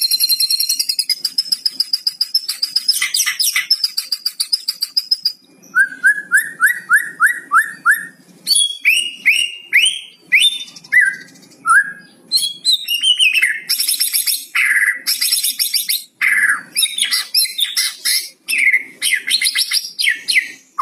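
White-rumped shama singing a varied song: a long high whistle, then a quick run of about eight repeated down-slurred notes, then a fast mix of whistled and harsh buzzy phrases.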